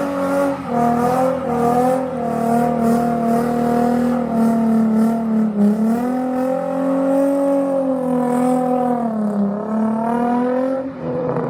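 A car engine held at high revs for several seconds, its pitch wavering slowly and dipping briefly twice before climbing again.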